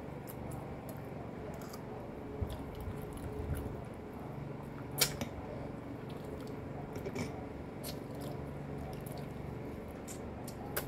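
Quiet chewing and eating sounds, with scattered light clicks of a metal fork against a glass plate and one sharper clink about five seconds in.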